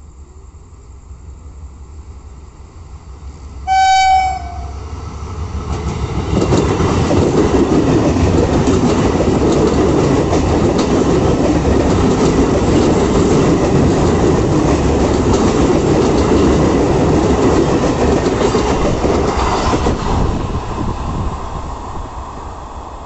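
Electric multiple-unit local train passing close by: one short blast of its horn about four seconds in, then the coaches go by with a steady rumble and wheel clatter, fading as the train moves away near the end.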